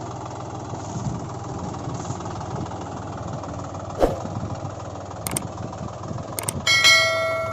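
Tractor engine idling with a steady low, rhythmic running sound. A sharp click comes about four seconds in, and a few lighter clicks follow. Near the end a ringing tone starts and fades.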